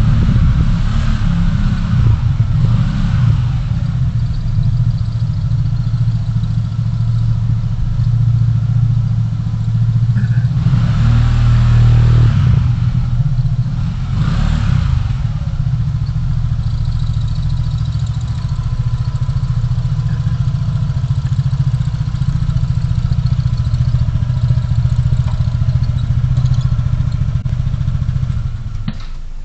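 Steady low rumble of a car driving in city traffic, with two louder swells of noise about 11 and 14 seconds in, like vehicles passing close by. The rumble drops off suddenly just before the end.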